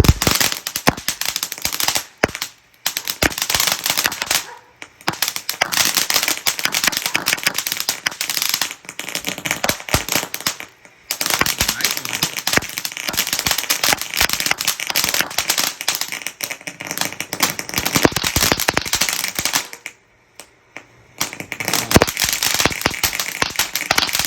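Phantom Breathless fountain firework going off: a dense, rapid run of sharp pops and crackles. It breaks off in a few short lulls, the longest lasting about a second near the end, then starts again.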